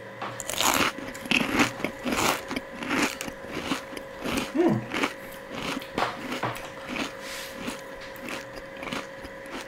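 Close-up chewing of a soft Indian sweet: wet mouth clicks and smacks about twice a second.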